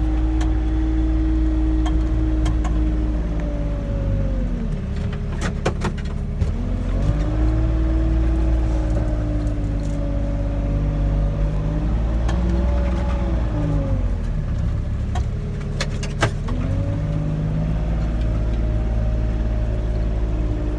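Kubota RTV 1100 utility vehicle's three-cylinder diesel and drivetrain running steadily under load while pushing snow with a V-plow, heard from inside the closed cab. The engine note falls and climbs back three times as it eases off and picks up between pushes, with a few sharp knocks about five seconds in and again around sixteen seconds.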